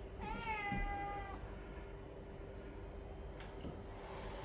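A cat meowing once: one long, drawn-out meow lasting about a second near the start, its pitch dipping and then holding level.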